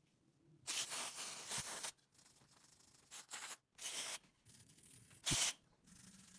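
Four separate bursts of abrasive rubbing on a hard surface. The first lasts about a second; the last, near the end, is short and the loudest.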